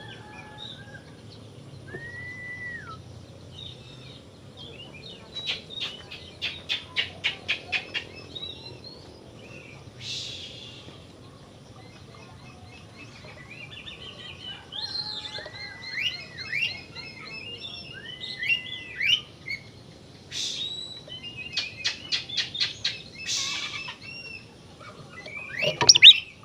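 Oriental magpie-robin (kacer) singing a varied song: clear whistled and gliding notes, a fast run of sharp repeated notes about six a second, and quick chattering phrases, with short pauses between.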